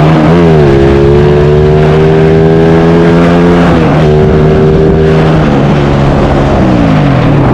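Single-cylinder four-stroke engine of a Yamaha MX King motorcycle bored up to 300cc, ridden under throttle. It blips once near the start, holds a steady pitch, dips briefly about four seconds in as it changes gear, then falls steadily in pitch as the bike slows near the end.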